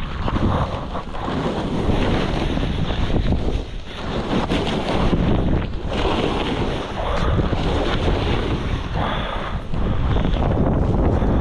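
Wind rushing and buffeting over the microphone of a mouth-held action camera during a downhill ski run, a loud rough roar with a few short dips.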